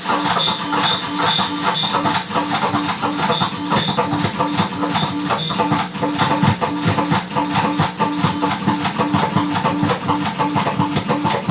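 Sharp printing calculator picked up by piezo contact sensors and distorted through a Big Muff-style fuzz circuit: a dense run of rapid clicks over a buzzing tone that pulses about twice a second.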